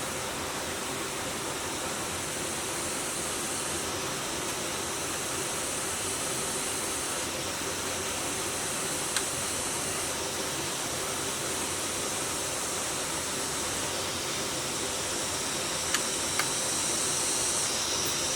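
Steady rushing hiss, with a few sharp clicks in the second half.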